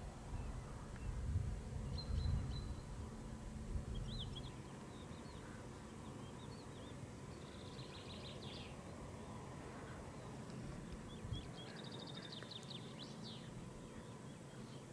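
Songbirds chirping and trilling in short, scattered phrases, with a quick run of trills a couple of seconds from the end. Low wind rumble on the microphone in the first few seconds.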